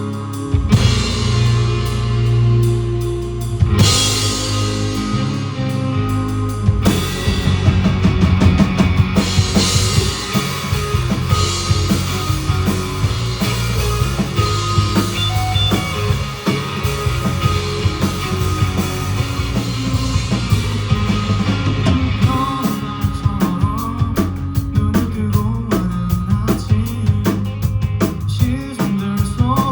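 A rock band playing live. Sustained chords ring at first, then a full drum-kit beat comes in about seven seconds in and drives on under the band.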